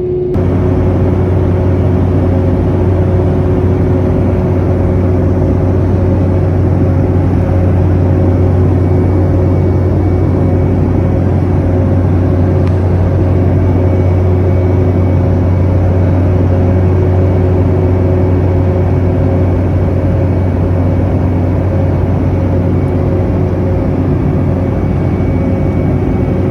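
Steady cabin noise inside a Boeing 717-200 in flight: the rush of airflow and its two rear-mounted Rolls-Royce BR715 turbofans, with a strong low hum and a few faint steady tones running under it.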